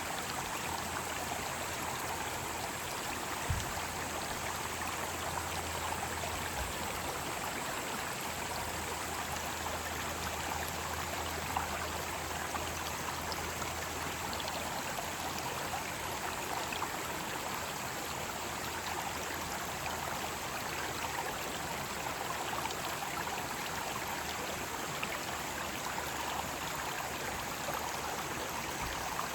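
Mountain stream rushing in a steady, even wash of water, with a constant high cicada drone above it.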